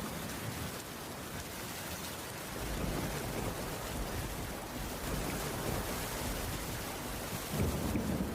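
Steady heavy rain, an even hiss. A low rumble of thunder rises near the end.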